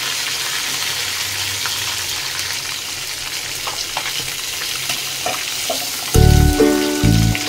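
Rohu fish steaks sizzling as they shallow-fry in mustard oil in a wok, with light scrapes and taps of a metal spatula turning them. About six seconds in, louder music with a heavy bass beat comes in over the frying.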